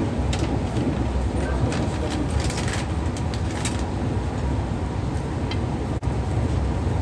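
Steady low rumble of a train in motion heard inside an air-conditioned double-decker coach, with scattered light clicks and rattles, most of them in the first half. The sound drops out for an instant about six seconds in.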